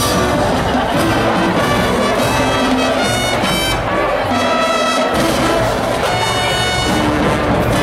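High school marching band playing a halftime show: brass section (trumpets and trombones) playing held chords over drums, with cymbal crashes near the start.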